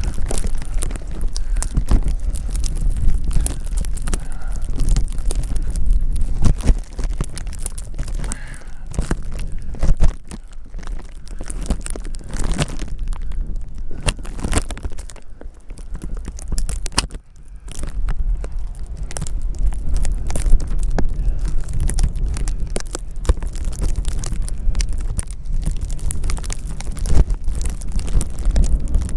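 Wind buffeting the microphone in a snowstorm: a heavy, gusty rumble with irregular crackling and rustling over it. It lets up briefly about ten seconds in and again around seventeen seconds.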